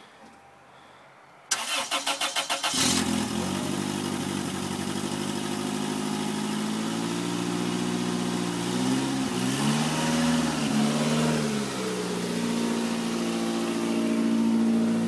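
A 1997 Toyota Corolla's four-cylinder engine cranks over with the starter for about a second, catches and runs. The revs dip and recover unevenly for a few seconds midway, as it runs on the last fuel left in its lines with the tank empty.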